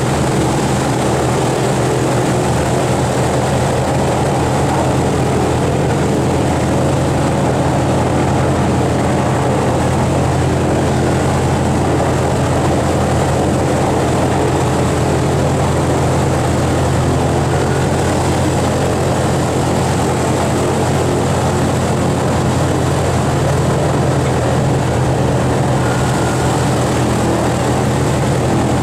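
Boeing B-29 Superfortress's four Wright R-3350 radial engines and propellers running in a loud, steady drone, heard from inside the aircraft.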